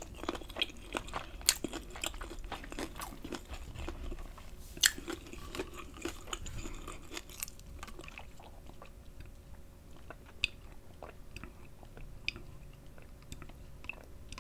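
Chewing and crunching a mouthful of deep-fried lobster tail, with frequent crisp clicks that thin out about halfway through to occasional soft mouth sounds.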